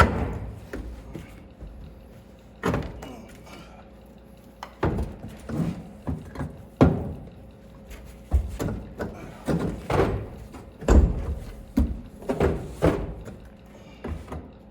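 A string of irregular clunks and thumps, a dozen or so, some in quick pairs, as the old truck's seat and its fittings are knocked and shifted in the steel cab after its mounting nuts have been removed.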